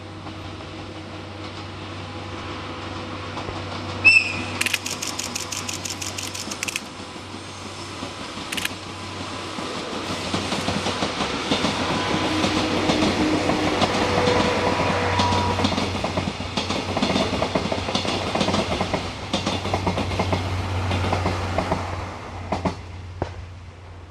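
A train passes, its wheels clattering over the rail joints in a rhythmic clickety-clack that builds to a peak midway and fades near the end. About four seconds in, a brief sharp high-pitched sound is followed by a quick run of even clicks for about two seconds.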